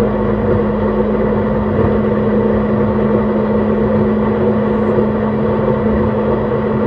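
JR East E131-600 series electric train running at a steady speed: constant rumble of the wheels on the rails with a steady motor or inverter hum that holds one pitch.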